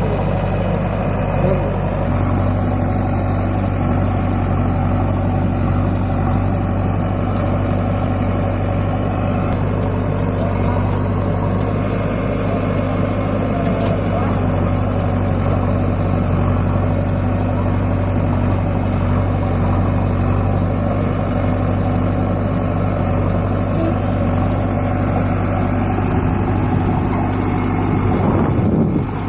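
Tractor diesel engine running steadily at an even speed, its note stepping up slightly about two seconds in.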